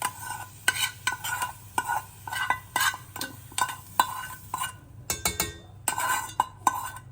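A metal utensil stirring and scraping in a pot or pan, with short ringing clinks about two or three times a second. It pauses briefly about two-thirds of the way through and stops abruptly near the end.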